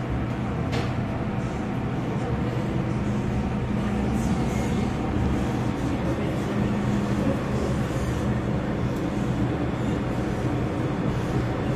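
Steady rumble and hum inside an MTR M-Train carriage on the Kwun Tong line.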